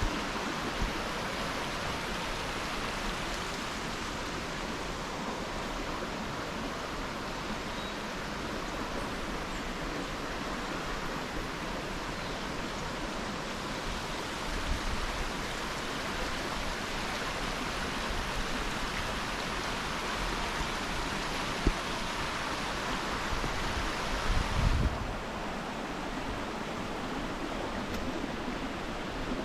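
Waterfall rushing steadily, a continuous even noise of falling water, with a couple of brief low rumbles about halfway through and near the end.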